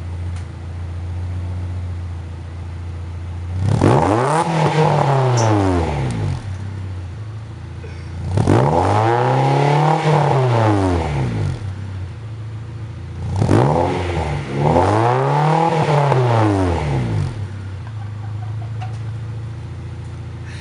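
A 2000 Honda CR-V's 2.0-litre four-cylinder engine running through a DC Sports aftermarket muffler. It idles steadily and is revved three times, the pitch climbing and falling back to idle each time. The third rev starts with a quick blip before a longer one.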